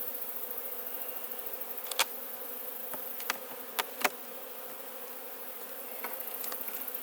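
Honeybee colony buzzing steadily around an opened hive, with a few sharp clicks and knocks about two to four seconds in.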